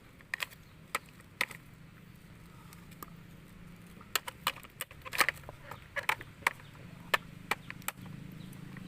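Plastic toys being handled and knocked together in play: irregular sharp clicks and knocks, coming thickest from a little before the middle to near the end.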